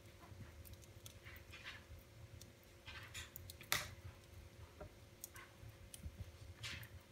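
Wood fire in a fireplace crackling, with irregular small pops and one louder pop a little past the middle, over a low rumble of the flames.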